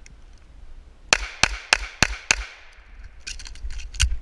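Pistol gunfire in a fast string: five quick shots about a third of a second apart starting about a second in, then a run of softer cracks and one more loud shot near the end.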